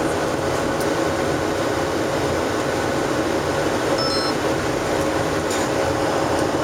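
Steady cabin noise inside a Boeing 737-700 in flight: the even rush of airflow and the CFM56-7 jet engines, with a faint steady hum. A brief faint high beep about four seconds in.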